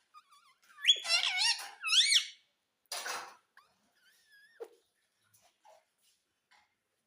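Ringneck parrot calling: loud, high squawks that swoop sharply up and down in pitch, a short harsh screech about three seconds in, then a few fainter calls.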